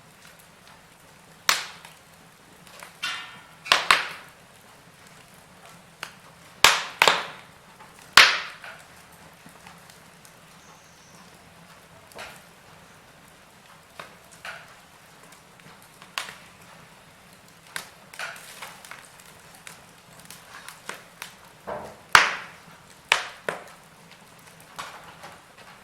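Wood fire burning in a fireplace, crackling with sharp pops at irregular intervals, several of them loud.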